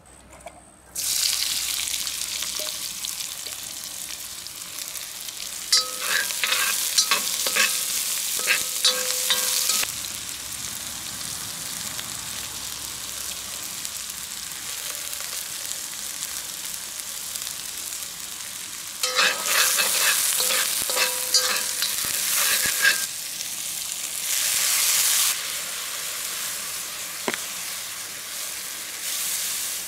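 Diced onions frying in hot oil in a wok over a grill fire: a loud sizzle starts suddenly about a second in and keeps going. Twice, a utensil scrapes and clinks against the wok as the onions are stirred, with short ringing tones.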